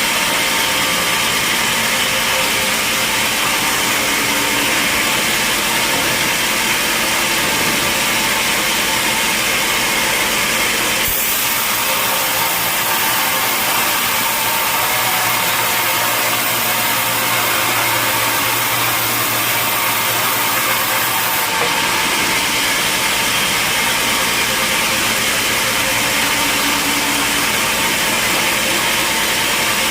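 Sawmill machinery running steadily while a large saw cuts through a log, a continuous loud mechanical noise. From about 11 to 21 seconds in the sound turns harsher and brighter, with a low steady hum beneath.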